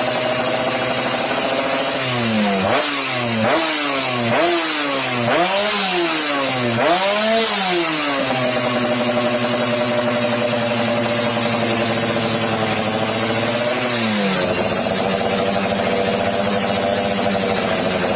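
Yamaha F1ZR's single-cylinder two-stroke engine through a modified exhaust, idling, then blipped about six times in quick succession, each rev rising and falling, before settling back to idle. Later the idle sags briefly and then steadies again.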